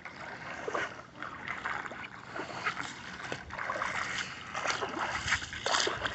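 Footsteps splashing through shallow floodwater on a road, about two splashes a second, over the hiss of running water.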